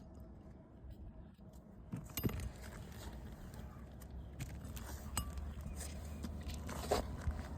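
Small metal items clinking and jangling, with scattered light knocks, as hand tools and nails are handled during shingle repair work, over a steady low rumble.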